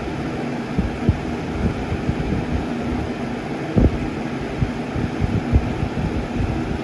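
1995 Windmere box fan running steadily with a faint motor hum, its airflow buffeting the microphone in irregular low thumps. It shakes a little but keeps steady.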